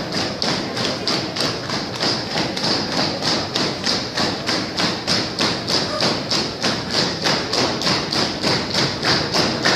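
A steady rhythm of sharp percussive strikes, about three a second, evenly spaced and unchanging.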